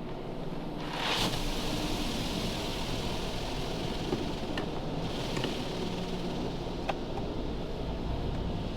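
Automatic car wash jets spraying water over a car: a steady hiss that swells about a second in, with a few light ticks.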